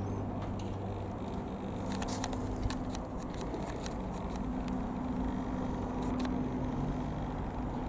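Single-piston-engine light aircraft running with a steady propeller drone that shifts slightly in pitch partway through, with a few sharp clicks.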